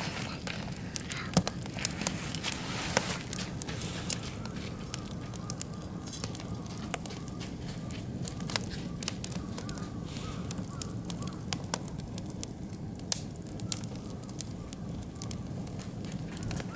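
Oak and beech wood fire crackling in a barbecue grill, with sharp, irregular pops over a steady low rush. The loudest pop comes about a second and a half in.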